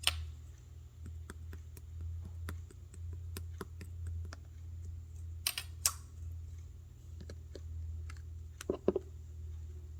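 Two-layer slime being worked by hand, giving an irregular string of small sticky clicks and pops, with louder pops about halfway and near the end, over a steady low hum.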